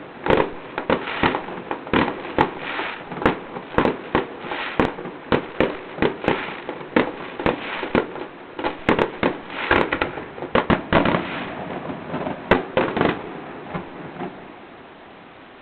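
Fireworks display: a rapid, continuous barrage of sharp bangs and cracks, several a second, that thins out and stops a couple of seconds before the end.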